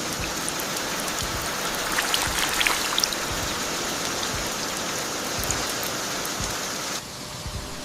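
Steady rain falling, with scattered sharper drop ticks; it turns quieter about seven seconds in.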